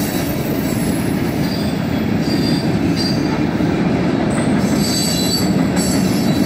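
Freight cars rolling past on steel rails: a steady, loud rumble of wheels and car bodies, with several brief high-pitched wheel squeals coming and going through the middle of the passage.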